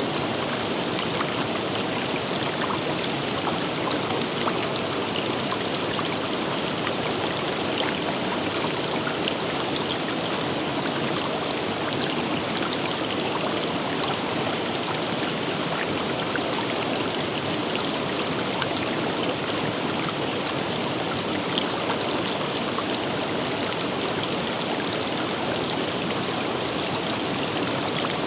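Forest river or stream running steadily, a constant rush of water with many small splashes and droplets.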